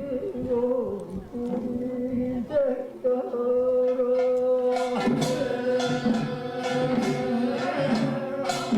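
Korean traditional farming work song (deul-sori) performed live: a male voice sings long, wavering held notes. About five seconds in, percussion joins with a steady beat.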